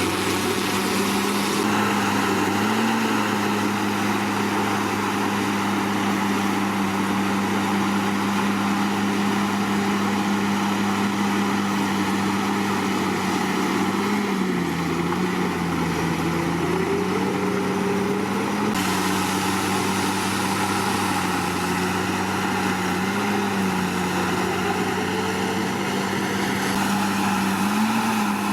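Komatsu D61PX bulldozer's diesel engine running steadily. Its note wavers a few times and sags for a couple of seconds about halfway through.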